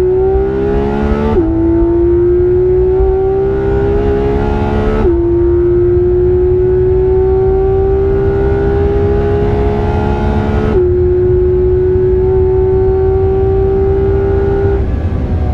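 Porsche 991.2 GT3 RS's naturally aspirated flat-six pulling hard under full throttle, heard from inside the cabin: the engine note climbs steadily and drops sharply at three upshifts, about a second and a half, five and eleven seconds in. It holds a steady note until it fades away near the end, over a constant low rumble of road noise.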